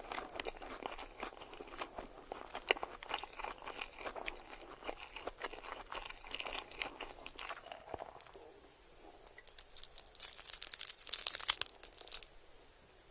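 Close-miked crunchy food being bitten and chewed, with many crisp crackles. The chewing eases off past the middle, then a dense burst of loud, crisp crunching comes near the end.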